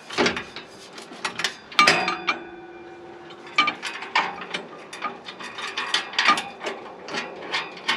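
Metal clinks and clanks of bolts and metal exhaust parts being handled and fitted, with the loudest clank about two seconds in ringing briefly.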